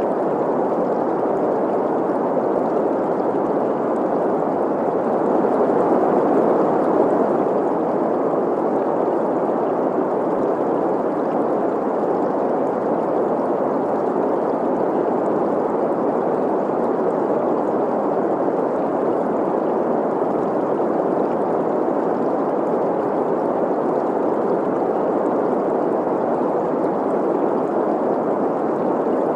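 Green noise, a steady hiss centred in the middle range, mixed with the sound of a flowing, gurgling stream. It swells slightly about six seconds in.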